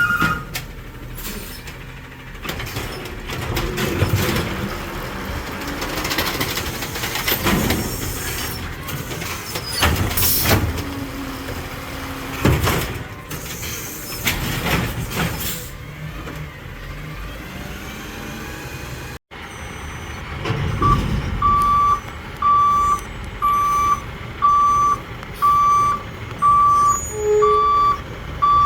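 Garbage trucks at work. First a truck runs with several heavy bangs. Then, after a sudden cut, a truck backs up with its reverse alarm beeping at a steady pitch, about once every three-quarters of a second.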